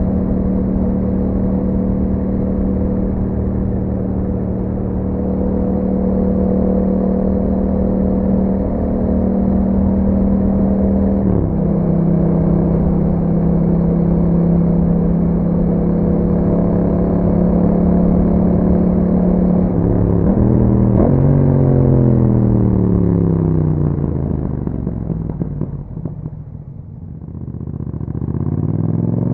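2021 Yamaha MT-07's parallel-twin engine running through an Akrapovic exhaust, heard from on the bike. It holds steady revs, steps down in pitch about eleven seconds in like a gear change, then the revs fall away over several seconds as the bike slows, going quietest near the end before climbing again as it accelerates.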